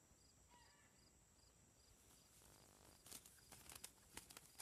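Near silence with faint outdoor insects: a steady high buzz and short chirps repeating about two or three times a second. A few soft clicks and rustles come in the second half.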